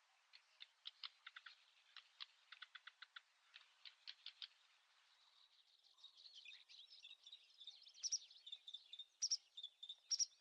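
Small birds chirping faintly, a quick run of short high chirps giving way after about five seconds to busier, louder twittering.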